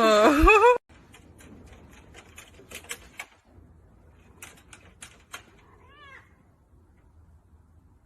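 An animal's loud, wavering pitched call that cuts off abruptly under a second in, followed by scattered sharp clicks and taps, then a short, fainter call about six seconds in.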